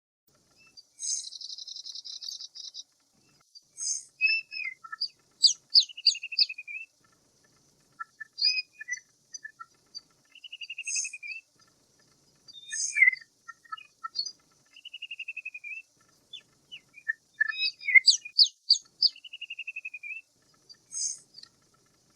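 Birds chirping and singing: sharp high chirps and whistled notes, with several fast trills that fall slightly in pitch, coming in bouts with short pauses between.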